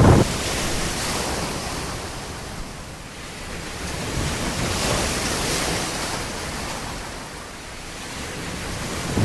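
Ocean surf washing on a beach: a steady rush of breaking waves that swells about halfway through and then eases off.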